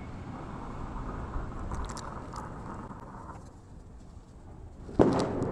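Cats in a fight standoff: a low, steady growling sound, then a sudden loud outburst from the cats about five seconds in.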